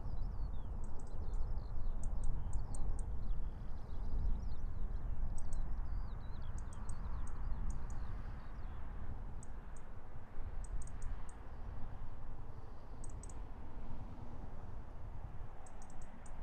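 Small birds singing outdoors: short, very high chirps repeated in quick clusters, with a warbling song that fades out after about six seconds, over a low rumble.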